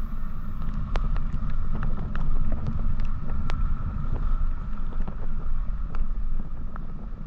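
Wind buffeting the microphone on a motorcycle riding at speed, a steady low rumble with a faint steady whine above it and scattered sharp ticks.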